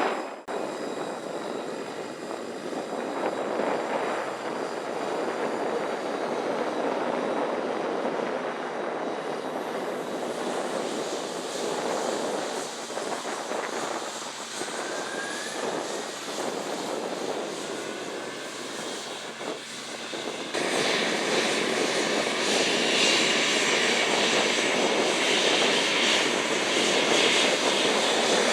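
Air Canada Airbus A319 being pushed back: steady aircraft engine noise with a faint rising whine. About two-thirds of the way in, the sound steps up sharply into a loud high-pitched jet whine as an engine spools up on start.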